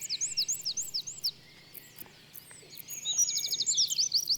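A songbird singing a high, quick phrase of repeated slurred notes with a fast trill; the song pauses after about a second and starts again about three seconds in.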